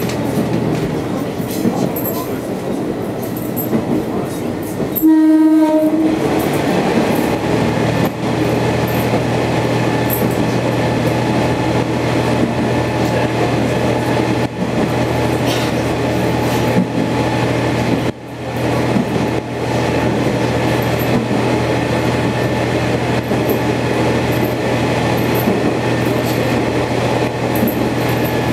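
Sanriku Railway diesel railcar running along the line, with a single horn blast about five seconds in that lasts about a second. Its steady running noise and engine hum continue throughout.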